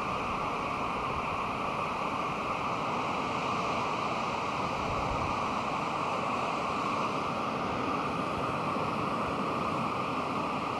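Pacific Ocean surf, a steady unbroken wash of breaking waves.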